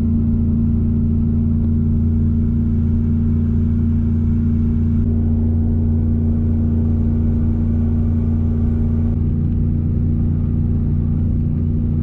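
Steady drone of a 2004 Chevrolet Silverado 1500 pickup's engine and road noise, heard from inside the cab while the truck tows a camper. The tone shifts slightly about five seconds in and again near nine seconds.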